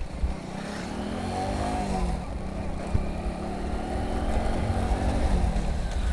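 Motorcycle running on the road while being ridden, its engine pitch rising and then falling about one to three seconds in, over a steady low wind rumble on the microphone.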